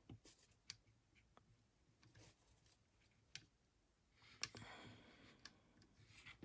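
Faint, scattered small clicks and a short scrape from a small screwdriver working the screws and plastic parts of an action figure.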